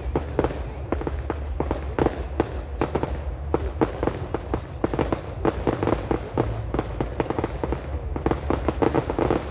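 Fireworks display going off in a dense, continuous barrage of bangs and crackles, several a second, over a steady low rumble.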